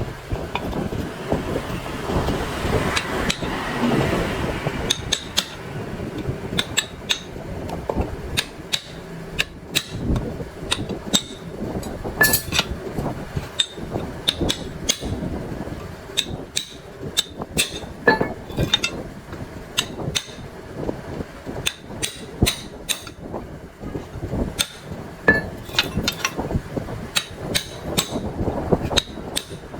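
Repeated sharp metallic taps and clinks at an irregular pace, some ringing briefly, like hammer blows and tools striking steel machine parts during disassembly. A denser scraping noise comes in for a few seconds near the start.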